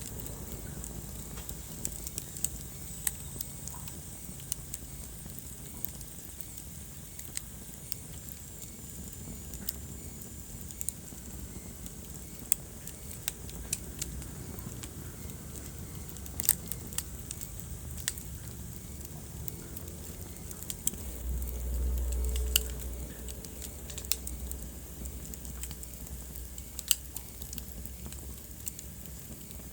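Wood fire burning in a fireplace, crackling with scattered sharp pops over a steady low rumble of flame. About two-thirds through the rumble swells louder for a couple of seconds.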